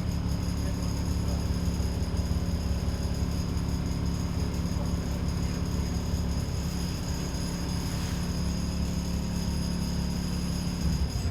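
Diesel engine of an ADL Enviro 400 double-decker bus running steadily, heard from inside the bus as an even low hum with a faint constant high-pitched whine.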